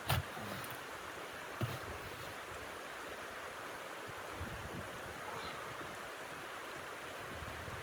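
Strong wind blowing steadily, with two sharp clicks, one right at the start and another about a second and a half later.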